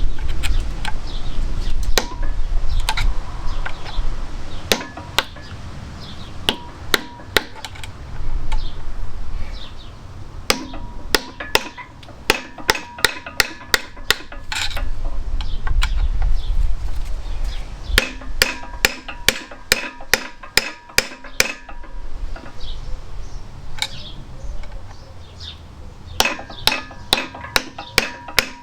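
A hammer striking a big screwdriver against the crankshaft hollow bolt's retaining washer on a Fiat 500 engine, knocking the washer back: sharp ringing metal-on-metal strikes in quick runs of about four or five a second. Between the runs there is a low rumble of handling noise.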